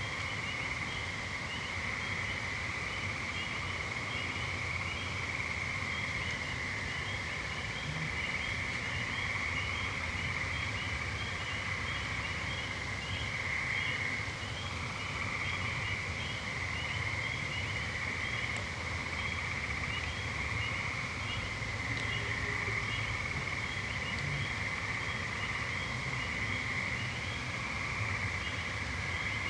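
Evening boreal-forest soundscape: a continuous high-pitched chorus of calling frogs and insects, with small repeated chirps a few times a second above it.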